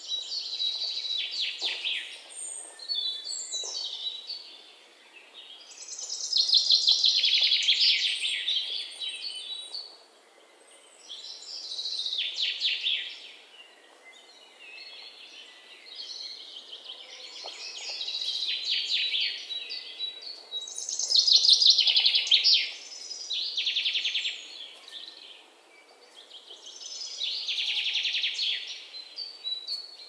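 Small birds chirping: bursts of rapid, high twittering notes, each lasting a second or two and coming every few seconds, over a faint background hiss.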